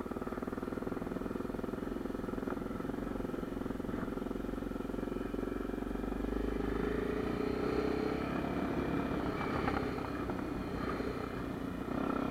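Honda Tornado 250's air-cooled single-cylinder four-stroke engine running steadily, getting a little louder about halfway through.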